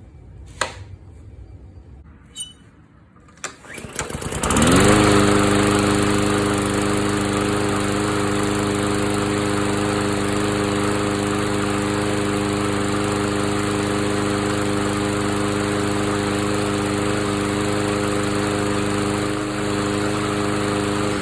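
A few sharp clicks, then a Craftsman M90 lawn mower's engine is started, rising quickly in speed about four seconds in and then running steadily at one constant speed.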